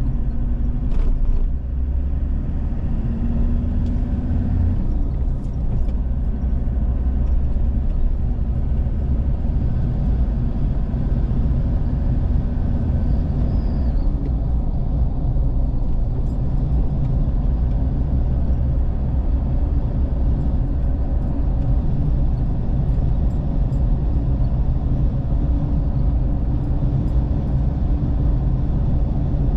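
Steady low rumble of a vehicle on the move: engine and road noise, with a short rising engine note about two to four seconds in.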